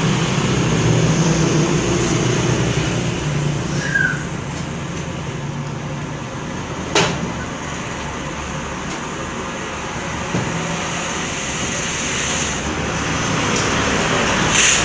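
Steady outdoor background noise with a low hum fading in the first few seconds, a short high chirp about four seconds in, and a single sharp click about seven seconds in.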